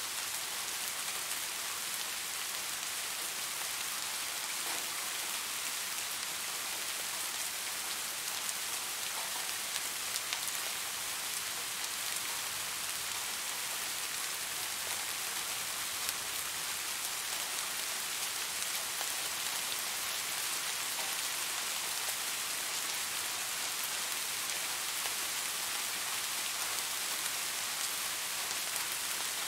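Steady rain falling, a bright, even hiss with a few louder drops ticking here and there.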